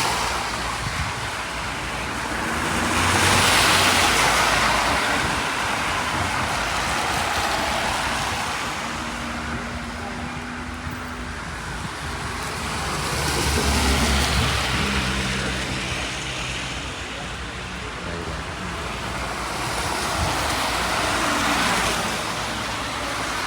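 Road vehicles passing one after another, each a rush of tyre and engine noise that swells and fades, about four times.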